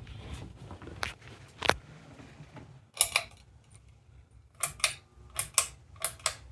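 Ceiling fan running with a steady low rumble, over which come a series of sharp clicks, about nine, several in quick pairs.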